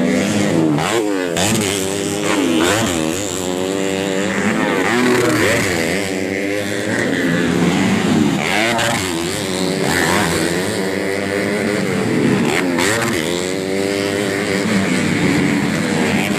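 Several underbone motorcycles racing on a motocross track, their engines revving up and falling back again and again as the bikes overlap.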